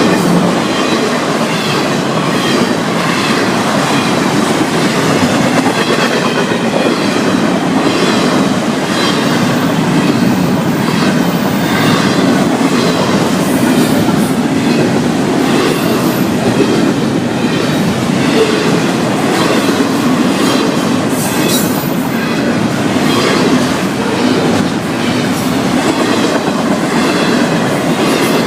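Florida East Coast Railway intermodal freight cars rolling past on the rails: a steady loud rumble of wheels, with a rhythmic clickety-clack over the rail joints and a few brief high wheel squeals.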